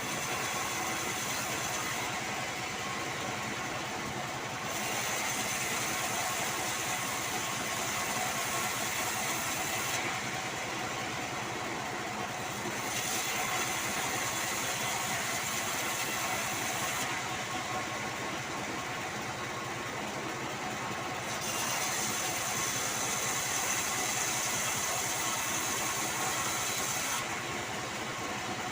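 Band sawmill running and sawing sengon wood. A louder hissing stretch while the blade cuts lasts five or six seconds and alternates three times with a quieter stretch of a few seconds between passes.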